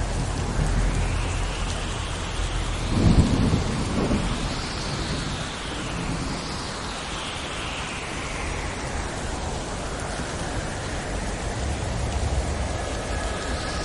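Thunderstorm: steady heavy rain with low rumbling thunder, and a loud thunderclap about three seconds in.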